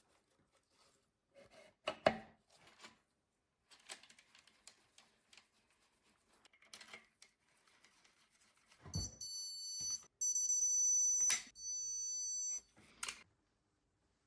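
Light clicks and knocks, then a shrill, steady electronic-sounding tone that runs for about three and a half seconds with one short break, with a thud as it starts and another knock just after it stops.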